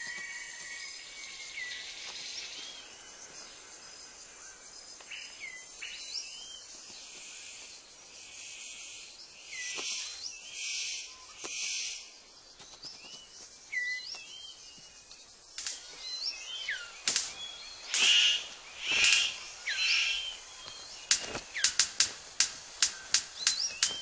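Birds calling with short, sharp gliding chirps, with bursts of rustling in between. Near the end come a quick run of sharp snapping clicks, about three a second.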